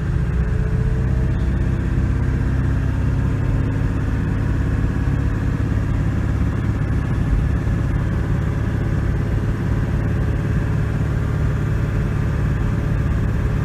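Ford 7.3-litre Powerstroke V8 turbo-diesel in a 2001 F250 pulling steadily under load as the truck climbs a hill, heard from inside the cab. Its pitch rises slightly in the first couple of seconds, then holds.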